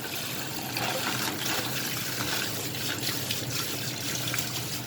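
Water running from a tap into a sink in a steady stream, with irregular splashes as something is rinsed under it.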